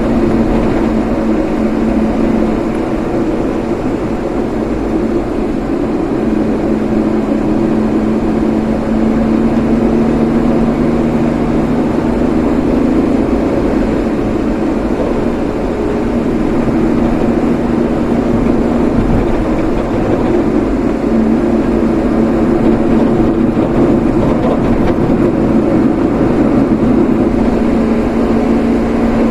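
A vehicle driving along at a steady pace: engine hum and road noise, with a slight change in pitch now and then.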